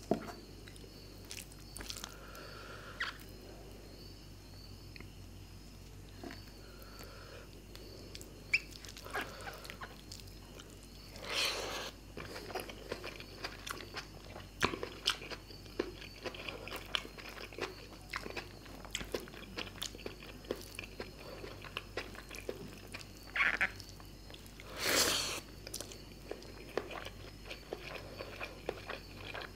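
Close-miked eating of fish curry and rice: steady chewing with many small wet mouth clicks and smacks. There are two longer, louder noisy sounds, about eleven seconds in and again near twenty-five seconds.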